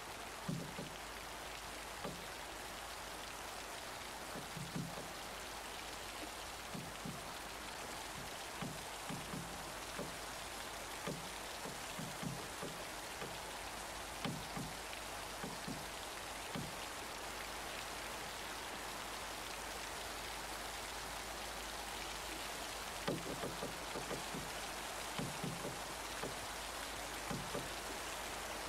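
Steady rain hiss with heavy drops landing one at a time at irregular intervals as low plops, a small flurry of them about three-quarters of the way through.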